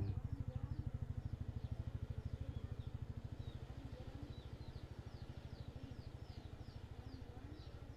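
Birds chirping over and over in short falling notes, above a steady, rapid low mechanical throb.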